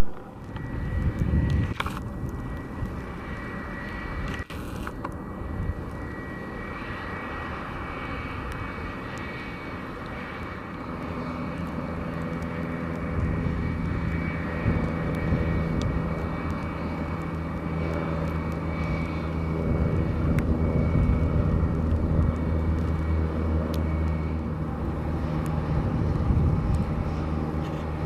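Boeing 757-200 freighter's jet engines running at low taxi power just after landing, a steady whine with a low hum that grows louder from about ten seconds in.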